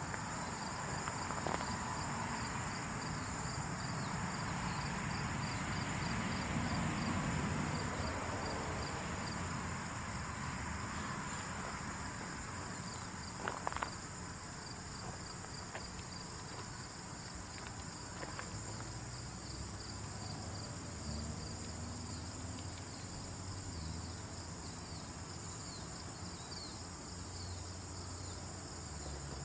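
Insect ambience: a steady, high, fast-pulsing insect chirring over a low rumble, with a few faint clicks, the clearest a short cluster about halfway through.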